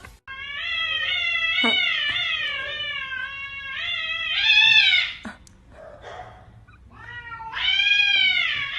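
A cat yowling: one long, wavering meow of about four and a half seconds that rises and gets louder near its end, then after a short pause a second long meow begins.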